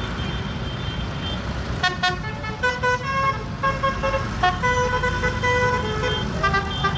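Tractor engines running with a low rumble, and from about two seconds in a musical horn plays a quick tune of short, stepped notes.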